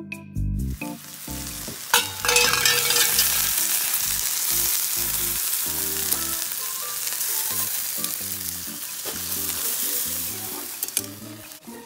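Skewered chicken frying in a hot black pan over charcoal: a loud sizzle that sets in sharply about two seconds in and goes on steadily, easing slightly near the end.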